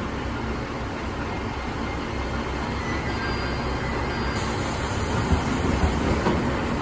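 JR West electric train pulling away from the platform, its running noise on the rails growing slightly louder as it gathers speed, with a few sharp clacks in the second half.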